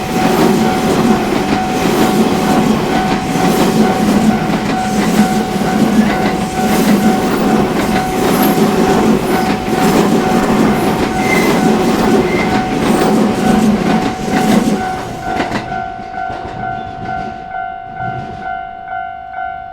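A JR Narita Line train passes over a level crossing, its wheels clattering and rumbling on the rails, while the crossing's warning bell rings on and on. About fifteen seconds in the train noise dies away, and the bell's evenly repeated dings carry on alone.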